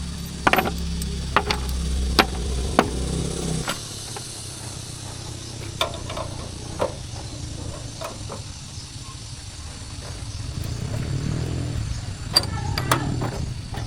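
A low, steady motor hum that cuts off about four seconds in, with scattered sharp metal clicks and knocks. A low engine rumble builds up near the end.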